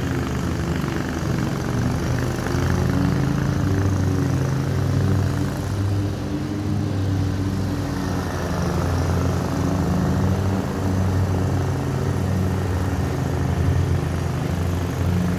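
Lawn mower engine running as a steady drone whose pitch wavers slightly.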